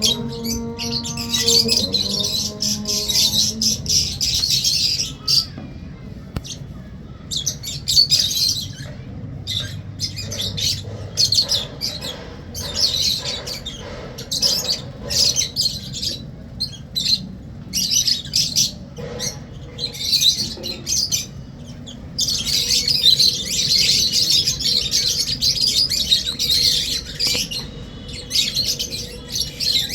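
Small pet parrots chirping and squawking in quick, overlapping bursts of high-pitched calls, busiest near the start and again about two thirds of the way through.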